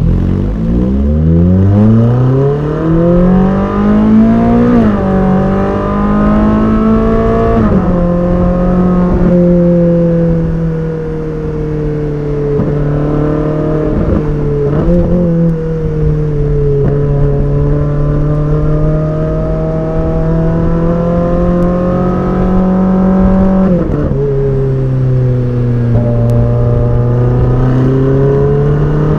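Ferrari 458 Speciale's naturally aspirated V8 being driven. The revs climb steeply in the first few seconds with a quick shift, then it runs at fairly steady revs with small changes. It drops in pitch about three-quarters of the way through and climbs again near the end.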